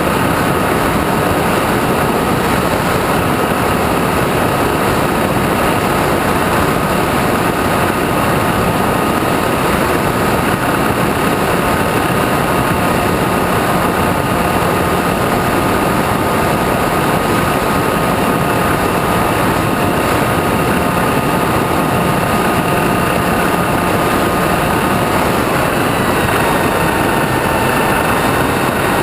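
Motor and propeller of an FPV radio-controlled model airplane heard from its onboard camera: a steady high whine over loud rushing wind noise, with the pitch shifting about 26 seconds in as the throttle changes.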